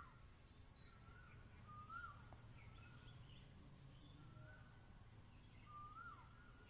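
Near silence: faint outdoor ambience with small birds calling, a short rising-and-falling note repeated every second or two with a few higher chirps, over a low steady background hum.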